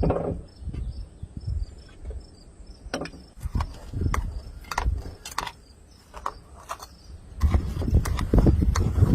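Insects chirping faintly in a steady repeating pattern, under scattered sharp clicks and knocks; about three-quarters of the way in a louder, busy clattering and rustling starts up.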